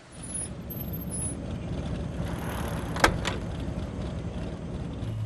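A car engine running with a steady low rumble, with a sharp click about three seconds in and a softer one just after.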